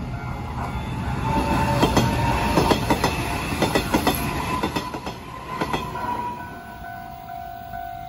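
Taiwan Railways electric multiple-unit commuter train pulling out and passing close by. Its wheels clack over rail joints in a string of sharp clicks, with a slightly rising motor whine, loudest from about two to six seconds in. A level-crossing warning signal sounds a steady tone underneath and is heard more clearly once the train has gone by.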